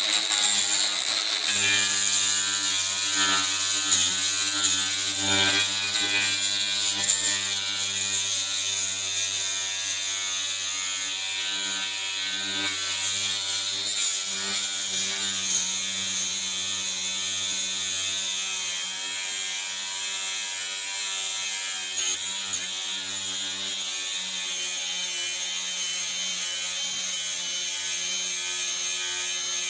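Second-generation brushed Bauer angle grinder running steadily, its 120-grit sanding pad grinding rust off the metal of an old smoker, with a constant high motor whine.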